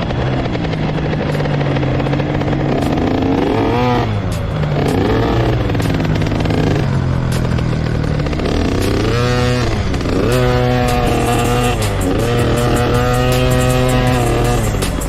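Motocross dirt bike engine revving, its pitch rising and falling repeatedly as the throttle is worked through corners and gear changes, with another engine running more steadily underneath.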